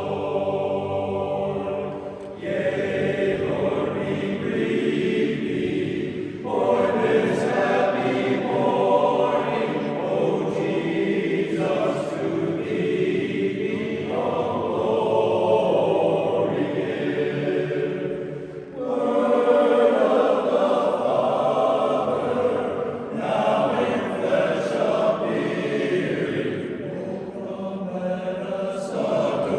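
A barbershop chorus singing a cappella in close harmony: long held chords in phrases a few seconds long, with short breaks between them.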